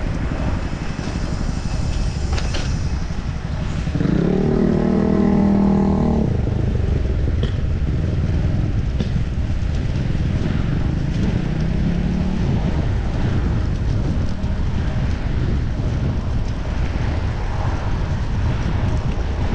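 Steady wind rumble on a chest-mounted action camera's microphone from riding speed. A motor vehicle's engine passes close by about four seconds in, and a fainter one passes around ten seconds in.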